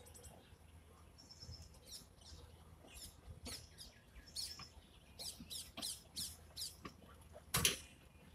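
Small birds chirping: a quick run of short, high, sweeping chirps over a faint low rumble, with one brief sharp knock near the end.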